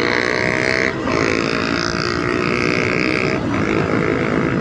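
Road traffic with a steady, even-pitched vehicle sound that runs in stretches, breaking briefly about a second in and again near three and a half seconds.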